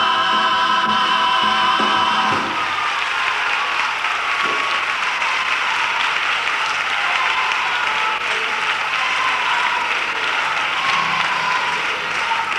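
A comparsa choir holds its last sung chord for about two seconds, then an audience applauds steadily.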